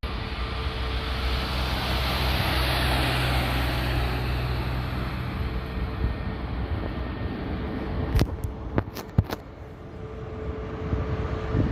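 Jet airliner engines roaring as the aircraft passes, swelling over the first few seconds then slowly fading, with a few sharp clicks about eight to nine seconds in.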